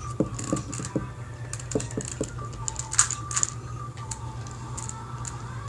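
Plastic Rubik's cube pieces being handled and pressed back into the cube: a string of irregular small clicks and taps.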